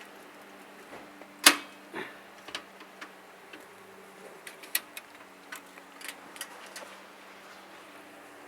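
Scattered clicks and knocks, the loudest about one and a half seconds in, over a faint steady low hum.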